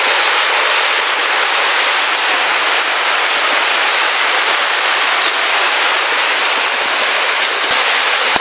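River water rushing steadily, a loud even hiss of fast-flowing water.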